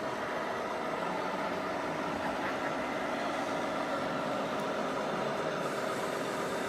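Radio-controlled scale trucks and tractors running, giving a steady engine-like idling hum with a mix of constant tones.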